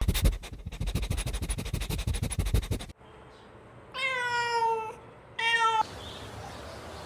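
Domestic cat meowing twice, a longer meow and then a shorter one, after about three seconds of a low, rapidly pulsing sound that cuts off abruptly.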